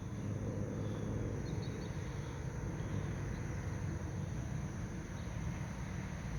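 Steady outdoor background noise: a low rumble with a faint, even high-pitched insect drone above it.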